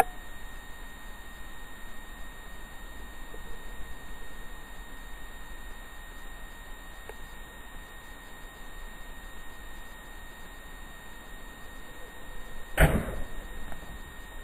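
Steady background hiss with a faint constant high-pitched tone, broken by one brief knock or clatter about 13 seconds in.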